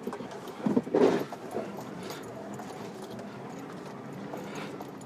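Lorry engine running steadily, with a few knocks about a second in.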